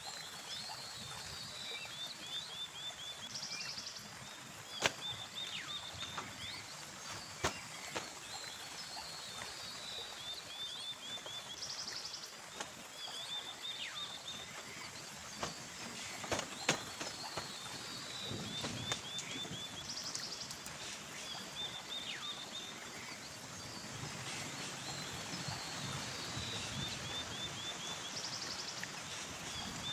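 Forest ambience: a bird repeating a short, high run of quick chirps every few seconds, with a short buzzing call coming back about every eight seconds, over a steady hiss. A few sharp knocks break in, twice near the start and once past the middle.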